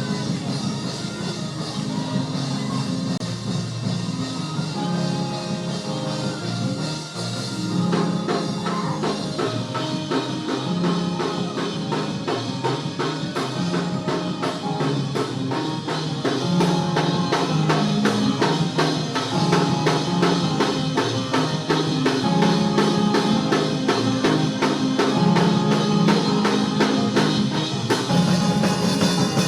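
Band music with a drum kit over sustained low bass or organ notes. About eight seconds in, the drums settle into a fast, steady beat, and the music grows louder about halfway through.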